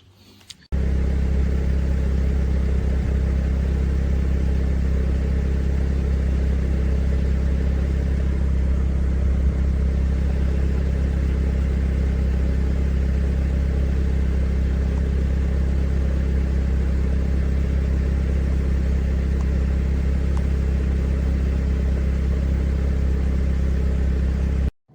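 Steady, unchanging low rumble of a running vehicle, with most of its weight in the deep bass. It cuts in abruptly just after the start and cuts off abruptly just before the end.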